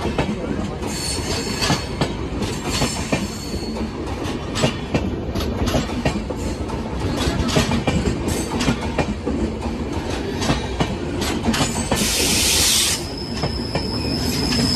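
Marudhar Express passenger coaches rolling past at close range: a steady rumble with a rapid clatter of wheels over rail joints. A brief loud hiss comes about twelve seconds in, followed by a steady high-pitched wheel squeal near the end.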